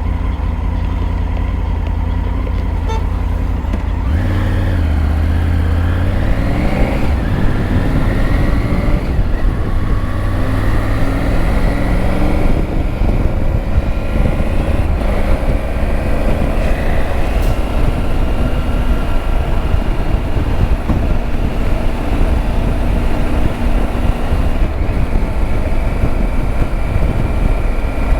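Triumph Tiger 900's inline three-cylinder engine under way. Its pitch rises as it accelerates about four to seven seconds in, then holds nearly steady at cruising speed. Heavy wind rumble sits on the microphone throughout.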